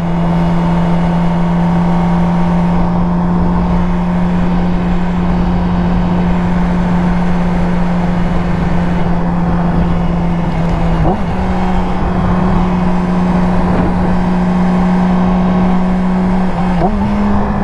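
Yamaha R6's inline-four engine running at steady cruising revs under a steady rush of wind and road noise. The engine note rises a little in a short glide about eleven seconds in, and again near the end.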